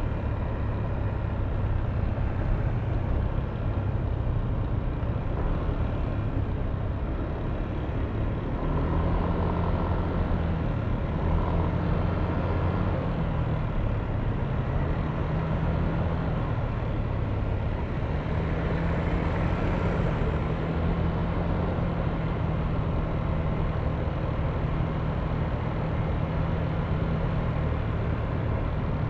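Yamaha Aerox V3 scooter's 155 cc single-cylinder engine running under way, its low note rising and falling a little with the throttle.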